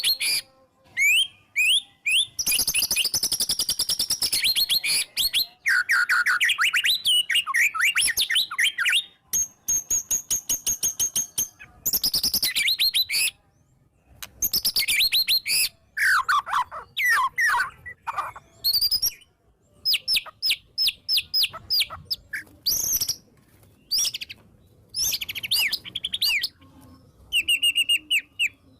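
White-rumped shama singing a loud, varied song in full voice: whistled sweeps, fast chattering trills and rapid runs of repeated notes, in phrases broken by short pauses.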